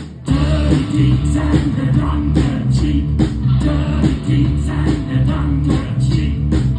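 Live rock-and-roll band playing, with drums, bass and electric guitar. After a single hit at the very start, the full band comes in a moment later and carries on with a steady beat.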